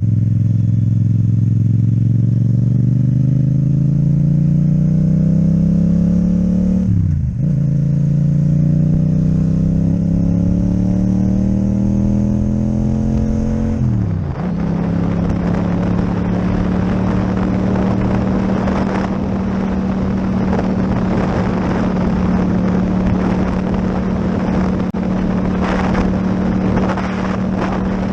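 Yamaha MT-07's parallel-twin engine through an Akrapovic exhaust, pulling hard up through the gears: its pitch climbs, drops sharply with an upshift about seven seconds in, climbs again, and drops with another upshift about halfway through. After that it settles to a steady cruise with wind rushing over the microphone.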